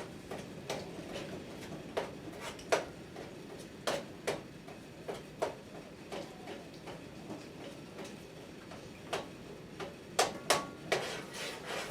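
A spoon stirring a warm gelatin and corn-syrup mixture, tapping and clinking against its container in light, uneven taps about once a second, with a longer pause in the middle.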